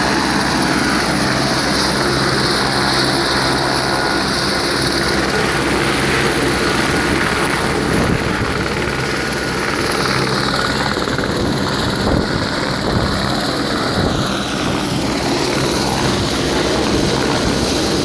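Police helicopter's rotor and turbine running loud and steady, with the whole tone sliding lower between about ten and fifteen seconds in.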